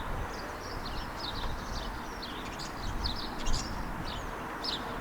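Small songbirds chirping and twittering in many quick high notes, over a steady low background noise.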